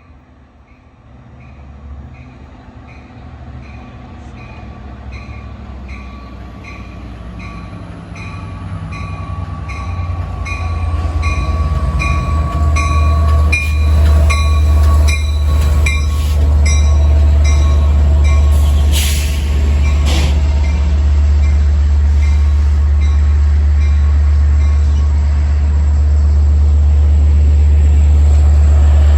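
A Long Island Rail Road diesel train pulls in, its deep engine rumble building from faint to loud and then holding steady as it draws alongside. A bell rings in a steady, even rhythm throughout, and a thin wheel squeal comes midway.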